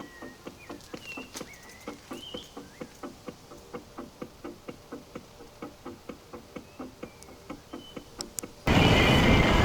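Even, steady ticking, about four ticks a second, with birds chirping; near the end a sudden loud rush of wind noise on the microphone takes over.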